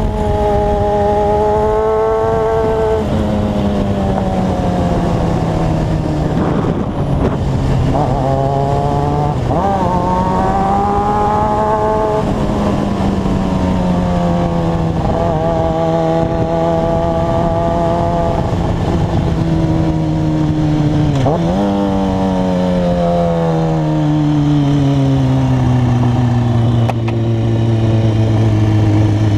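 Street motorcycle's engine running under way, its pitch rising and falling with throttle and gear changes and sinking slowly over the last few seconds, over a steady rush of wind and road noise.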